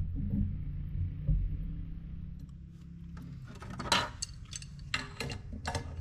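A small 12-volt air compressor motor running with a steady low hum, then stopping about three seconds in. It is followed by a series of sharp clicks and knocks from handling fittings and hardware.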